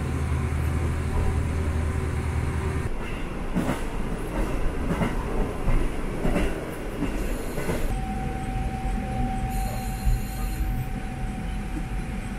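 Diesel local train heard from inside the carriage. The engine's deep drone drops away about three seconds in as it stops pulling, then wheel clatter and clicks follow as the train coasts and brakes. From about eight seconds in there is a steady high squeal as it draws to a stop at the station.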